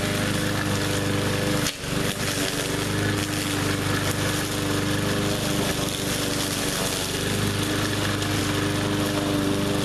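20-inch walk-behind push mower's small engine running steadily, with a brief dip in level about two seconds in.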